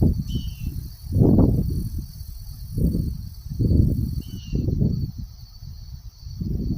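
Gusts of wind buffeting the microphone in uneven low rumbles, over a steady high drone of insects.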